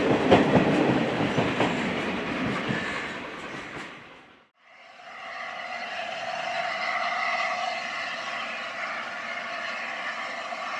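Heritage railway train passing close by, its wheels clicking over the rail joints, fading away over about four seconds. Then, after a sudden break, a quieter steady hum with a few held tones.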